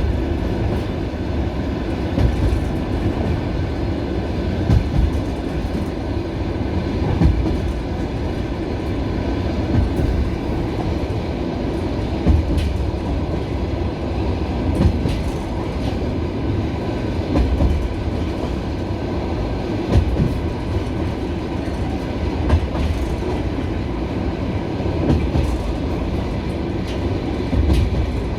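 Passenger railway carriage rolling slowly, heard from inside the car: a steady low rumble, with the wheels knocking over rail joints about every two and a half seconds.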